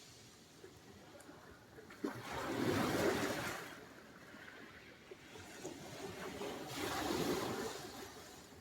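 Sea surf: two waves break and wash up the shore, the first about two seconds in with a sharp splash at its start, the second about four seconds later, with a low wash of water between them.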